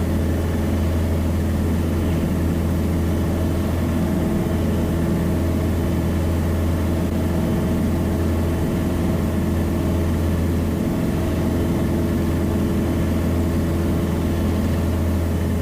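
Piper Cherokee's single piston engine and propeller droning steadily, at an even pitch and level throughout.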